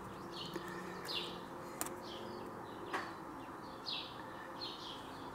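A bird chirping over and over in short falling notes, faint against a low room hum, with two light clicks about two and three seconds in.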